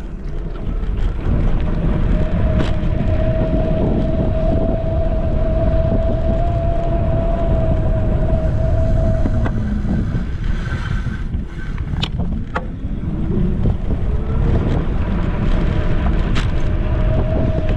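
Wind rumbling on a handlebar-mounted GoPro's microphone while riding a Caroma P5 electric scooter, with the scooter's motor giving a steady whine. The whine fades out about halfway through and comes back near the end, and there are a few sharp clicks in the middle.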